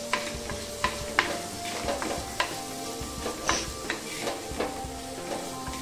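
Small onions, tomato and green chilli sizzling in hot oil in an earthenware pot while a spoon stirs them, knocking against the pot's side at irregular moments.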